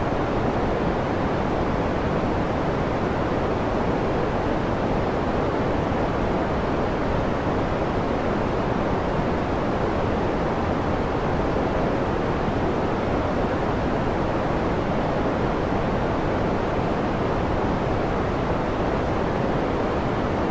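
Continuous sleep noise: an even, unbroken rushing hiss that is deeper than pure white noise, with most of its weight in the low and middle pitches and no changes, pulses or tones.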